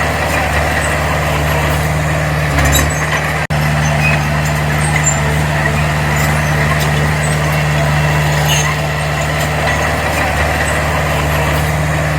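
Diesel engine of earthmoving machinery running steadily at a constant speed, with a momentary cut in the sound about three and a half seconds in.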